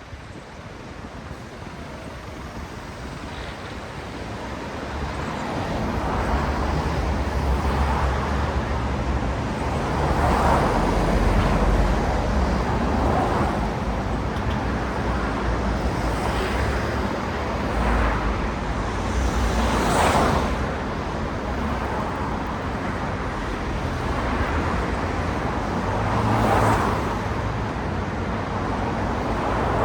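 Road traffic: a low steady rumble of engines and tyres that builds up a few seconds in, with a string of cars passing one after another, each swelling and fading.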